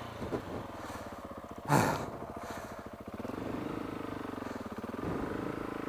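Motorcycle engine running at low revs, with one short, louder sound about two seconds in and the engine note rising slightly a second later.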